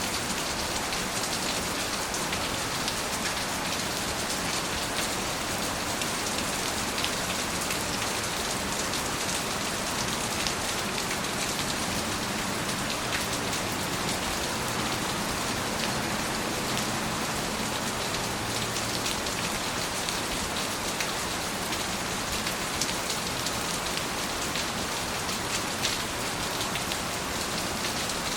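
Steady heavy rain falling, a dense even hiss with many small drop ticks against surfaces.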